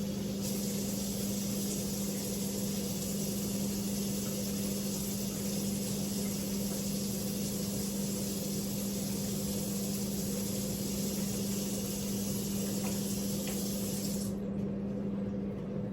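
Water running steadily into a mixing bowl of brownie batter, a continuous hiss that stops about a second before the end, over a steady low hum.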